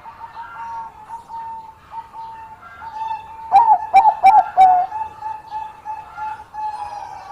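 Zebra doves cooing: a run of soft, repeated coo notes, broken in the middle by a loud burst of about four short, sharp coos that dip in pitch.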